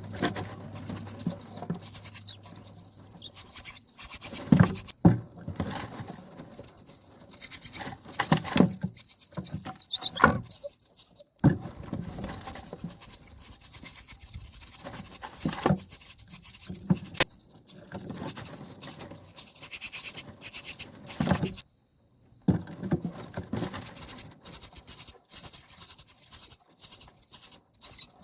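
Common myna nestlings begging: a rapid, high-pitched, raspy chatter that runs almost without pause. A few sharp knocks come through it, and it breaks off for just under a second near the end.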